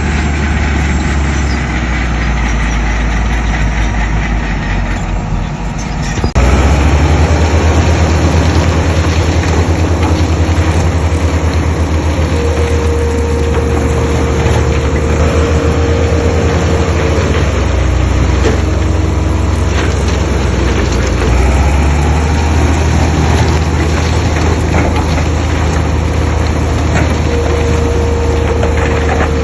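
Heavy diesel earthmoving machinery running with a deep, steady engine sound. It jumps louder about six seconds in, and a steady higher whine comes in twice.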